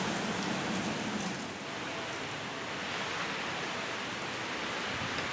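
Rain falling steadily during a thunderstorm, an even hiss with no thunder crack.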